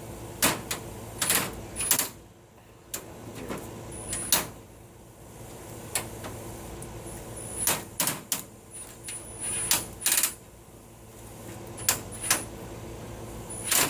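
Irregular metallic taps and clanks on aluminum awning parts being fitted together, about a dozen sharp knocks spaced unevenly, several with a short high ring.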